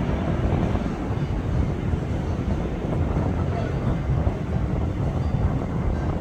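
Airplane engines giving a steady low rumble, with wind buffeting the microphone.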